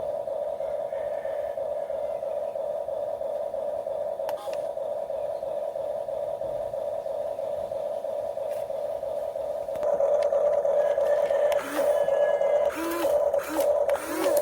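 Electric motor of a radio-controlled construction model whining at one steady pitch. It gets louder about ten seconds in, and a few knocks and rattles of the model working come near the end.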